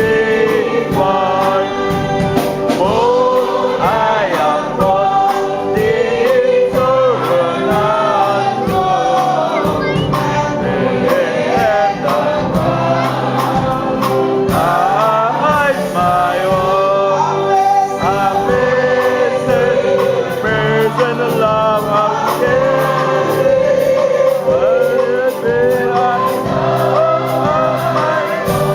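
Choir singing gospel music, with sustained instrumental accompaniment.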